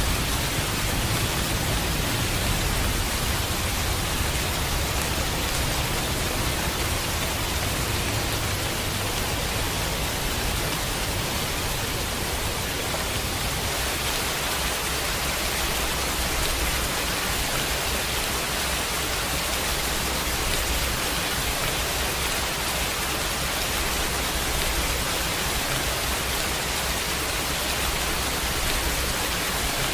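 Steady heavy rainfall, an even hiss of many drops with no breaks, with a low rumble underneath.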